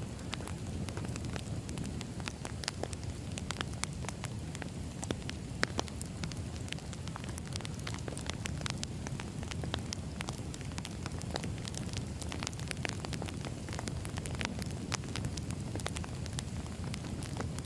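Wood fire burning steadily, with a low rumble and frequent irregular crackles and pops of burning logs.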